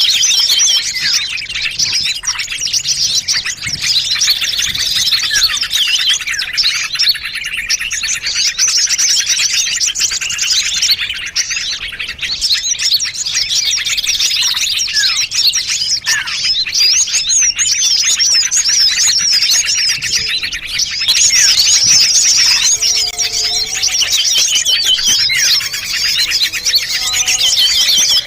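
Dense, unbroken chorus of many small songbirds chirping and chattering over one another: a mixed bird-lure (pikat) recording meant to draw small birds in. A few lower whistled notes stand out in the last third.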